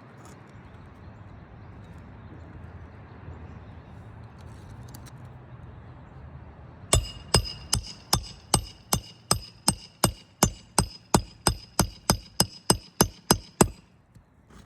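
A hammer striking metal in a fast, even run of about twenty blows, nearly three a second, each with a short metallic ring, as when driving roofing nails. It starts about halfway in and stops shortly before the end.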